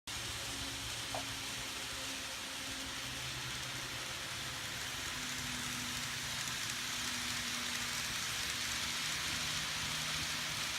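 N-scale model train running on its track: a steady rolling hiss with a faint low motor hum, growing slightly louder.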